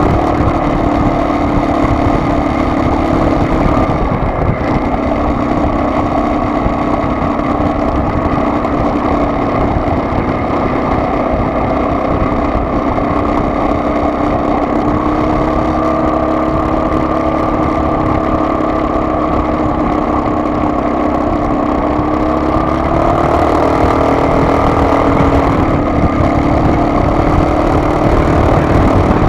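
Car engine running with road noise inside the car, a steady hum whose pitch shifts a little over halfway in and again near the end as the car changes speed.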